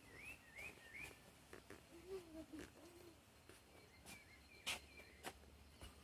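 Faint songbird calling outdoors: a quick run of short, arched whistled notes in the first second, a few more later, with scattered light clicks in between.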